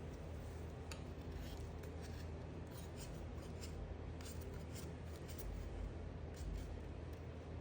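A blade cutting through a bar of soap, giving a run of short, crisp crackles and scraping strokes that are densest mid-way.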